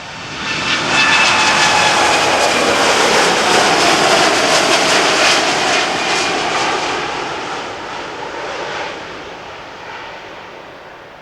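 Jet airliner taking off and passing by: the engine roar rises sharply about half a second in and holds for several seconds, with whining tones that slide down in pitch as it goes past, then fades away.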